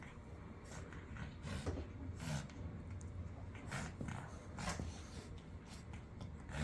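Shih tzus playing, making a string of short, breathy snorts and grunts at irregular intervals.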